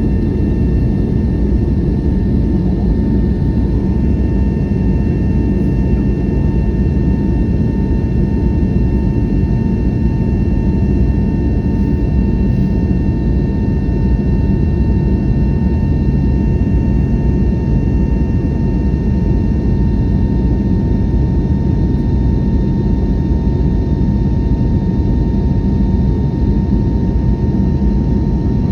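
Steady jet-airliner cabin noise from an Airbus A321neo in flight: a loud, even engine and airflow drone with several faint constant whine tones above it.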